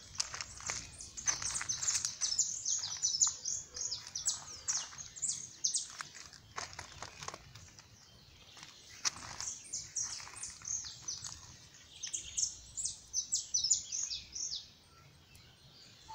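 Small birds chirping: a busy run of quick, high, downward-sliding notes, a short lull about halfway through, then another run, fading out near the end.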